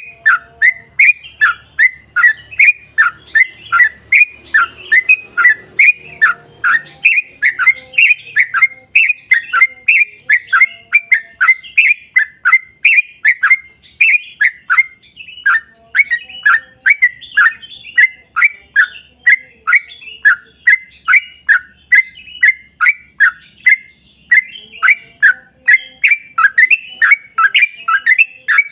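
Yellow-vented bulbul (trucukan) singing a long, unbroken string of short falling whistled notes, two or three a second.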